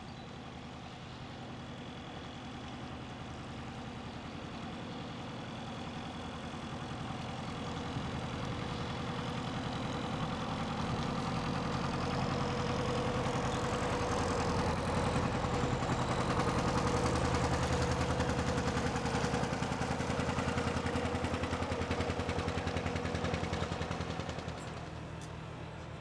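An engine running steadily with a fast even pulse, growing gradually louder to a peak about two-thirds of the way in, with a steady whine at the loudest part, then dropping away sharply about a second before the end.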